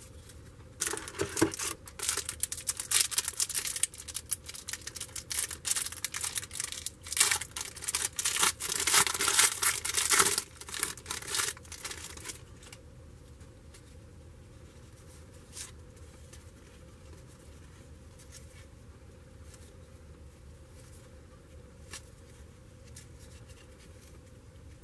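Trading card pack wrapper being torn open and crinkled, an irregular crackling that lasts about eleven seconds and then stops, leaving only a few faint clicks of handling.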